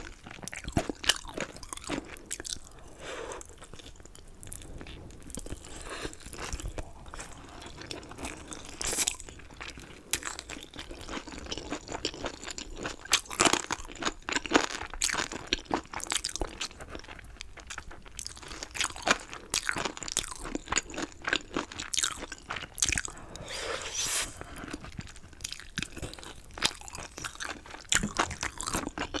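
Close-miked chewing of chicken, with many sharp, irregular crunches between softer chewing.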